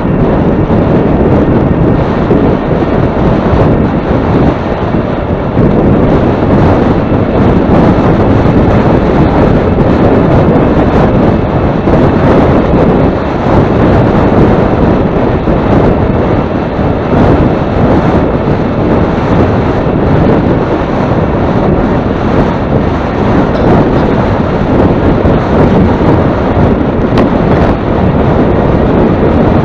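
Heavy wind buffeting the microphone, a loud, steady rumble that swells and eases.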